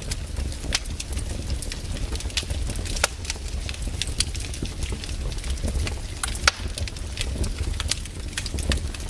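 Wood campfire crackling, with irregular sharp snaps over a steady low rumble; the loudest snap comes about six and a half seconds in.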